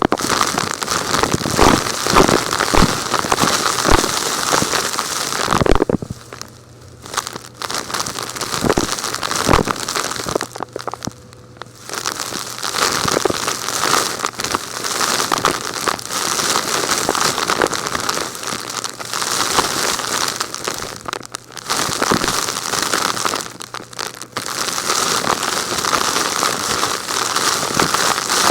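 Vacuum cleaner sucking up gritty, rocky debris: a dense crackling rattle full of small clicks over a faint steady motor hum, easing off briefly a few times.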